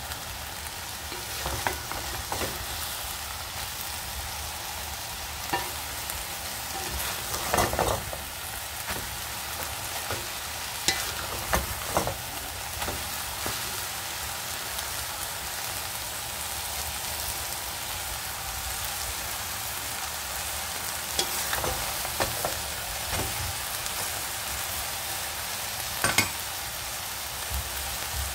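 Bacon, egg and string beans sizzling in a pan while a wooden spatula stirs them, with a steady frying hiss and scattered scrapes and knocks of the spatula against the pan.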